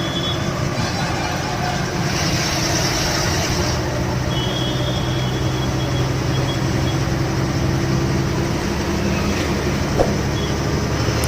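Lorry engine and road noise while driving at a steady pace: a steady low drone, with a short hiss about two seconds in and a single click near the end.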